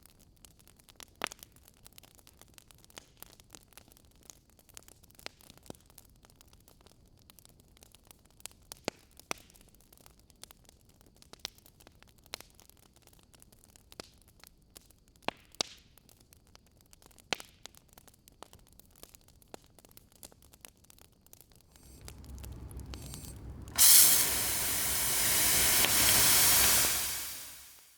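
Wood campfire crackling with scattered sharp pops. Near the end a low rumble rises, then a loud hissing spray starts suddenly, holds for a few seconds and fades out, as the fire is doused.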